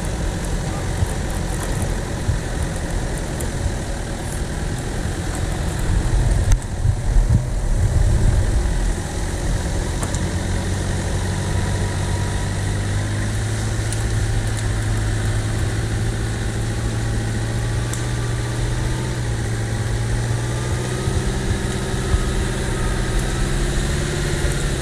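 Off-road SUV engine running, rising to a louder patch about six to nine seconds in, then held at a steady higher speed during a stuck-vehicle recovery.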